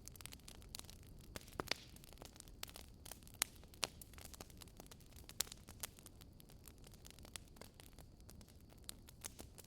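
Fire crackling in a fireplace: irregular sharp pops and snaps, a few of them louder, over a low steady hiss.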